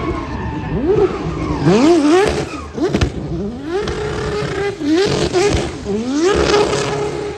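Drift car engine revving hard, its pitch climbing and dropping back again and again as the throttle is blipped and feathered, then held high near the end.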